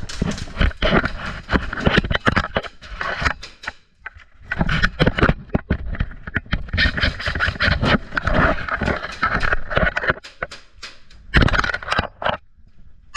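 Irregular scraping and rustling with many scattered sharp clicks, broken by a short lull about four seconds in.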